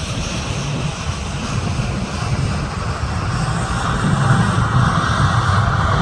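Jet airliner on its landing approach, its engines' rumble and whine growing steadily louder as it comes closer.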